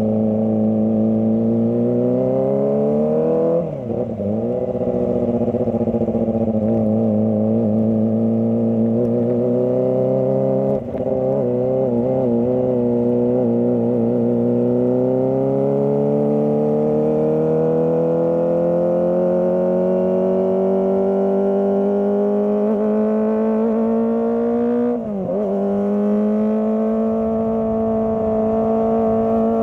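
Kawasaki ZX-25R's 250 cc inline-four engine pulling under throttle, its pitch climbing steadily, with three short dips in pitch and loudness as the throttle is rolled off, typical of gear changes.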